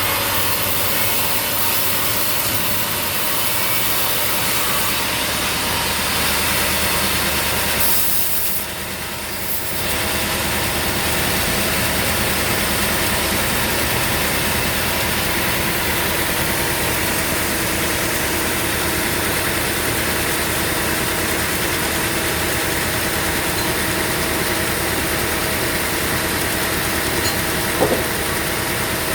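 Sawmill running: a steady engine drone with a saw blade cutting through a log, briefly dropping in level about eight seconds in before carrying on.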